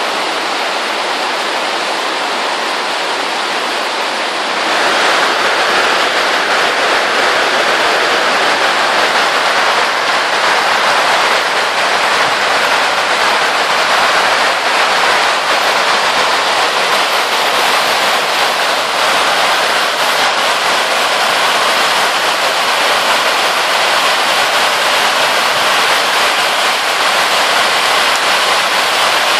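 Steady rain falling, an even hiss that grows louder and fuller about five seconds in, then holds.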